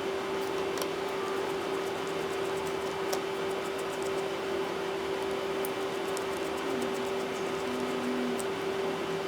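A steady hum with a constant mid-pitched tone over an even hiss, with faint light ticks scattered through it.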